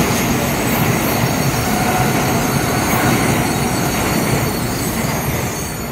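N700A Shinkansen train departing, its cars running past at speed: a steady, loud rush of wheels on rails and moving air that eases slightly near the end.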